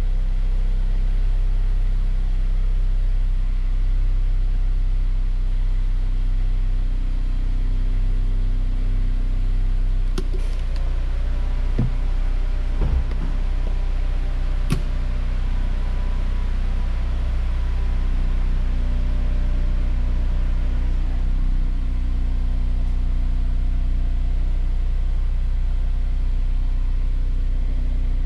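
A Honda S2000's inline-four engine idling steadily, with a low, even hum. A few sharp clicks and knocks come through around the middle.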